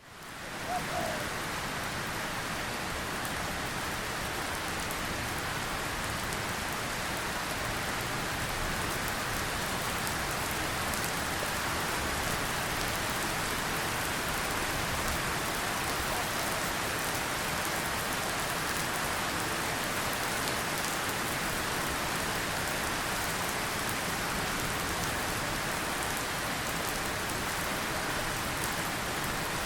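Steady rain falling, an even hiss with faint scattered drop ticks, fading in over the first second.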